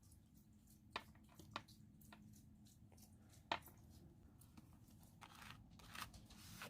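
Faint small clicks and a few short scrapes from nail stamping tools being handled, over a low steady hum.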